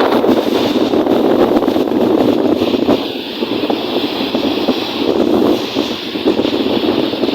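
Strong wind blowing across the microphone, a loud rushing noise that swells and eases in gusts.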